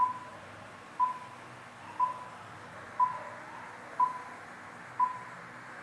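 Electronic countdown beeps: six short, identical mid-pitched pips, one each second, each dying away quickly.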